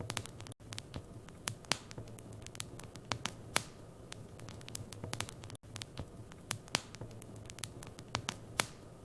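Wood fire in a fireplace crackling: irregular sharp pops and snaps over a low steady hum, with two momentary dropouts about five seconds apart.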